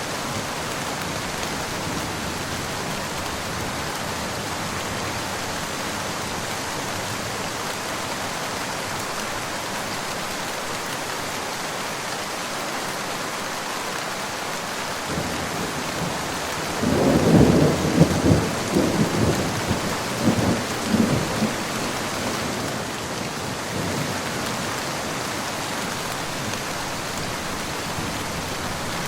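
Steady rain falling, with a thunder rumble that swells about halfway through, peaks in several loud low cracks and rolls away over about five seconds.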